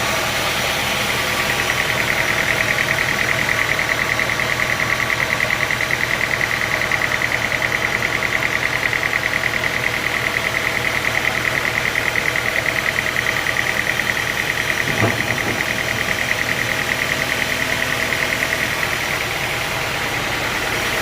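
Sawmill machinery running steadily, with a fast, even pulsing hum, and a single knock about fifteen seconds in.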